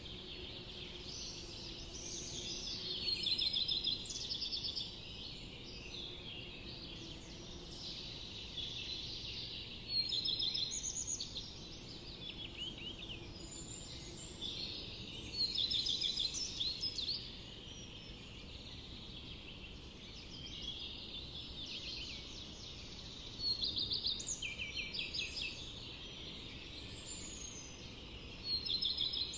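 A songbird singing short phrases of rapid repeated notes, one phrase about every six seconds, five times in all, over a steady background hiss of forest ambience.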